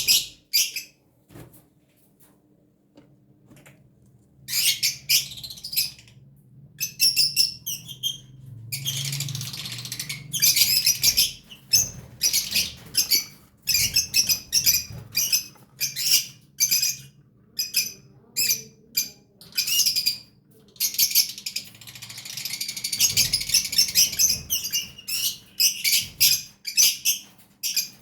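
Lovebird chicks calling in rapid runs of short, high, raspy chirps. There is a lull of a few seconds near the start, then the calls come almost without pause.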